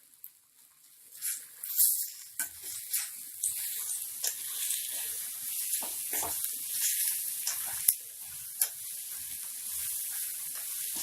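Sliced onions frying in oil in a kadai, sizzling steadily, with a spatula stirring and scraping in short clicks. The sizzle starts about a second in.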